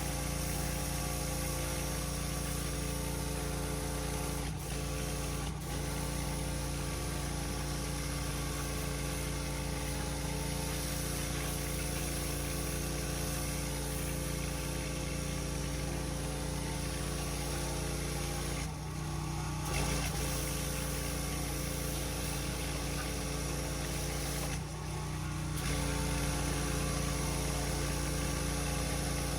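Petrol engine of a pressure washer running steadily. The sound briefly thins twice, once a little past halfway and again near the end.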